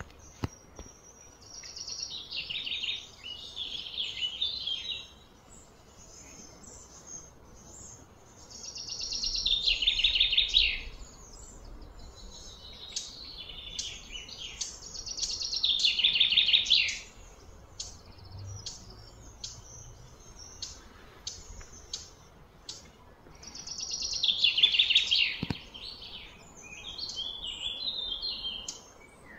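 A songbird singing: repeated high phrases of rapid trilled notes, each lasting one to three seconds, coming every few seconds.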